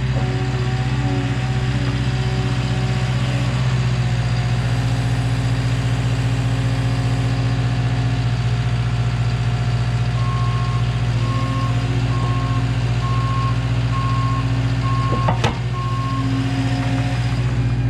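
Skid steer's diesel engine running steadily under load, with its backup alarm beeping about once a second from a little past the middle. One sharp knock sounds near the end.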